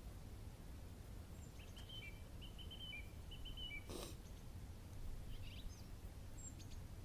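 A small songbird gives a quick run of short chirps between about one and a half and four seconds in, with a few fainter high calls later, over a low steady rumble. A single sharp tap sounds about four seconds in.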